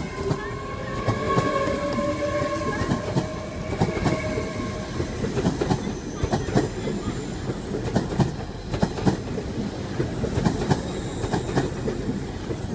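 LNER Azuma high-speed train running past along the platform: a continuous rumble of wheels on rail with rapid, irregular clacks over rail joints, and a whine that rises slightly over the first few seconds before fading into the wheel noise.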